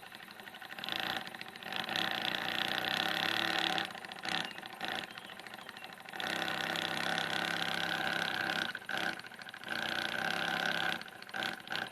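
Miniature engine running in several bursts of a few seconds each, dropping back between them as if the throttle is opened and closed.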